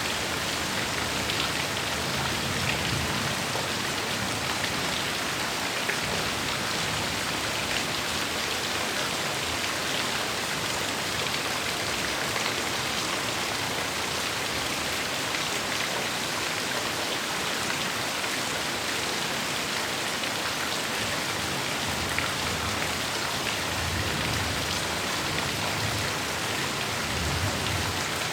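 Heavy rain falling steadily, an even dense hiss of drops on surfaces, with faint low rumbling swells about three seconds in and again near the end.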